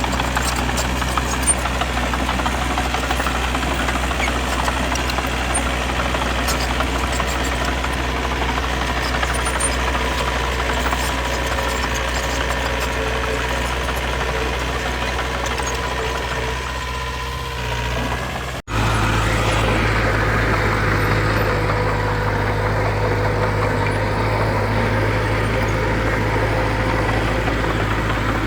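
Heavy-equipment diesel engine running steadily at an even speed. About two-thirds of the way through the sound cuts off abruptly and at once resumes as another steady engine, slightly louder and a little different in tone.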